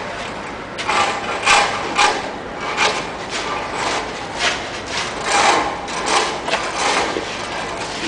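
Snow shovel scraping and scooping through deep snow on pavement, a string of irregular rasping strokes about one a second.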